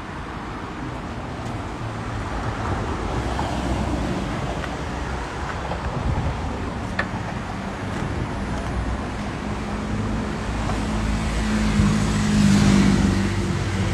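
A motor vehicle's engine running with a steady low hum that grows louder over the last few seconds, and a single sharp click about seven seconds in.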